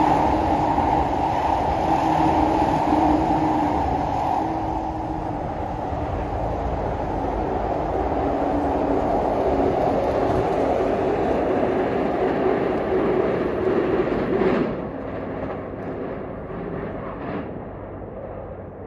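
A JR Yokosuka Line electric commuter train passing close beneath, its wheels and motors making a steady rolling noise with a low hum. The noise drops away suddenly about three-quarters through as the train clears, then fades.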